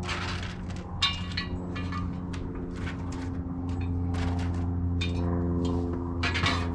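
A string of short clinks and scrapes, irregular and about one or two a second, over a steady low hum.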